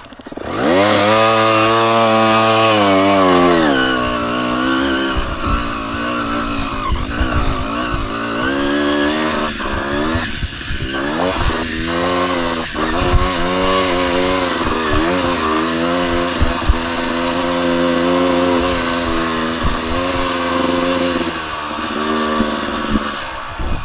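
Dirt bike engine revving up and dropping back over and over as the throttle is worked on rough trail, with scattered short knocks.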